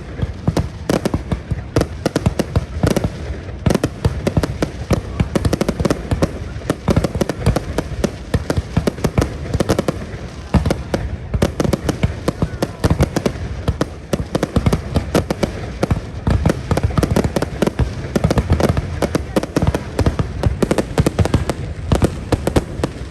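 Fireworks display: a dense, continuous barrage of bangs and crackles, many every second, without a pause.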